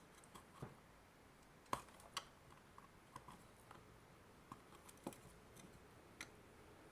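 Faint, irregular clicks and taps of plastic parts being handled: the pieces of a broken-open AC adapter case, with about a dozen scattered small knocks.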